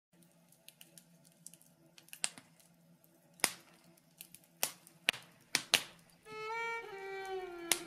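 Fireplace fire crackling, with irregular sharp pops over a faint low hum. About six seconds in, a violin starts playing a slow melody that slides down in pitch.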